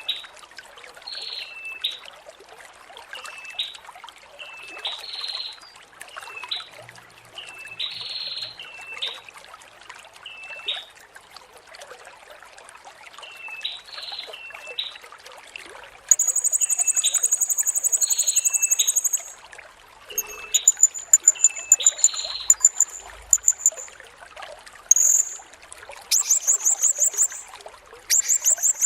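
Blue-crowned hanging parrot (serindit) birdsong. Short, thin calls repeat every second or two, and from about halfway very high, fast, rattling trills come in loud bursts. Water trickles steadily underneath.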